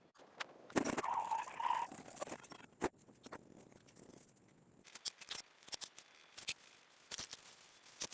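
Irregular clicks, taps and scraping of hand work on small engine parts, with a busier stretch of rubbing and scraping about a second in.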